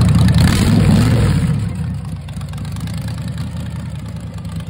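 Supercharged V8 of a T-bucket hot rod running through new open chrome individual-tube exhaust pipes. It is blipped once about a second in, then settles back to a steady, quieter idle.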